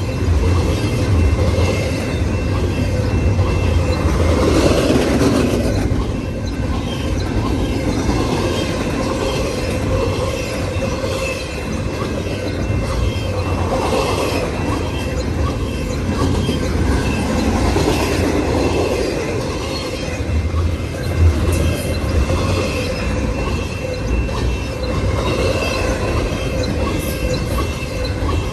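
Freight cars of a CN intermodal train rolling past: a steady rumble and rattle of the wheels on the rails, with a thin steady squeal from the wheels.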